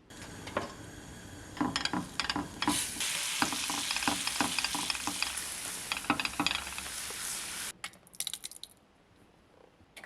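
Food sizzling in a frying pan while a spatula stirs and knocks against the pan, many quick knocks over the hiss. The sizzle grows louder a few seconds in and cuts off suddenly near the end, leaving a few last taps.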